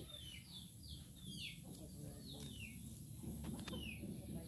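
A bird chirping over and over in short notes that slide downward, about two a second with short pauses, over a low murmur. A couple of faint clicks come about three and a half seconds in.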